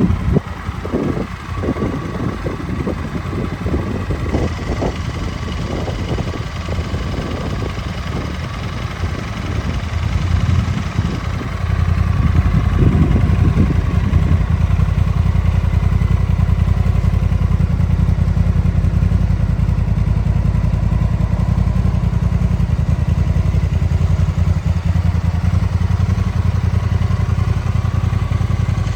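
Honda NT1100's 1084 cc parallel-twin engine idling steadily, with a few knocks and clatters over the first ten seconds. About twelve seconds in the engine sound gets louder and stays at that level.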